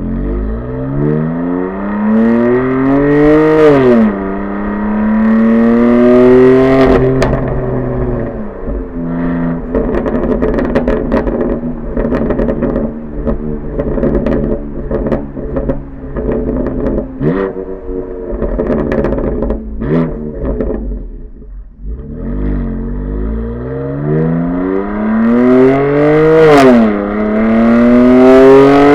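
BMW M4 Competition's twin-turbo inline-six through an M Performance titanium exhaust, accelerating hard with revs climbing and an upshift about four seconds in. Through the middle it comes off the throttle and the exhaust pops and crackles on overrun for over ten seconds. Then it pulls hard again, with another upshift near the end.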